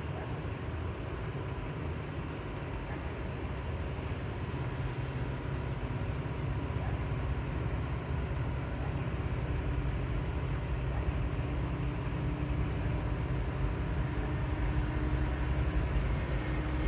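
A low diesel rumble growing steadily louder as an approaching Union Pacific freight train's locomotives draw near. A faint steady tone joins in during the second half.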